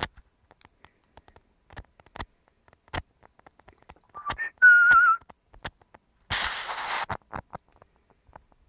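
Pet parrot giving two quick chirps and then one wavering whistle about halfway through. A harsh, noisy burst follows, with scattered faint clicks throughout.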